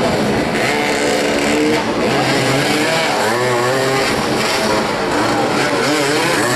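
Several motoball motorcycles running and revving together, their engine notes rising and falling as the riders accelerate and ease off.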